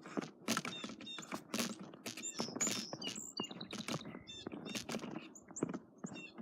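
Small birds chirping in quick short calls over a run of irregular short crunching or scraping strokes.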